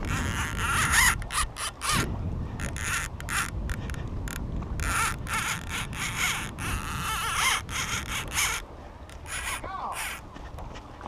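Birds giving harsh, repeated caws, a run of calls through the first several seconds and another near the end, mixed with short rushes of noise.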